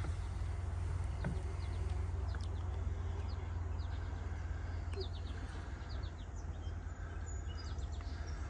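Backyard ambience: small birds giving scattered short, high chirps over a steady low rumble.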